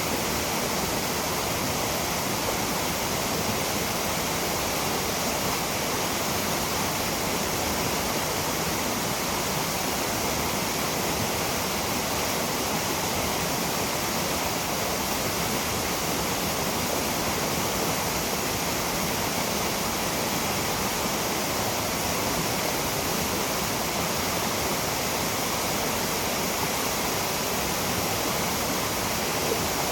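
Aotaki waterfall: water falling and splashing in a steady, unbroken rush.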